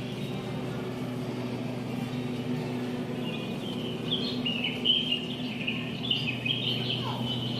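Birds chirping in quick, busy bursts over a steady low hum. The chirping starts about three seconds in.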